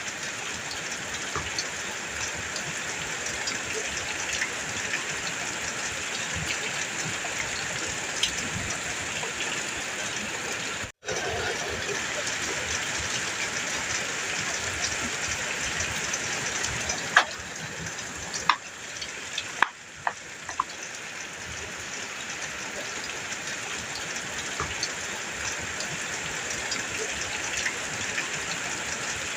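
Heavy rain drumming steadily on a metal roof, an even hiss with a few louder sharp taps a little past halfway. The sound cuts out for an instant about a third of the way in.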